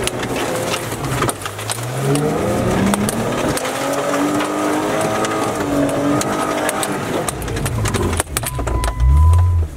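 Off-road vehicle's engine heard from inside the cabin, revving up a little over a second in and then holding steady while driving over rough ground. Frequent knocks and rattles from the bumps run throughout, and a louder low rumble comes near the end.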